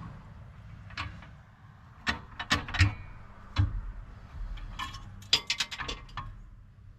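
Scattered metallic clicks and knocks of fifth-wheel hitch hardware and bolts being handled and fitted, with a quick run of clicks about five seconds in, over a low steady hum.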